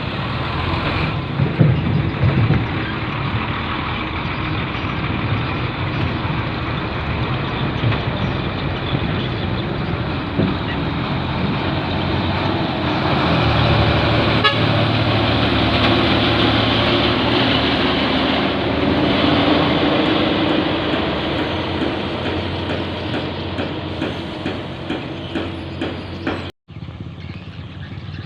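Heavy 8x4 truck's diesel engine running steadily, swelling for several seconds through the middle, with horn toots. The sound drops out briefly near the end.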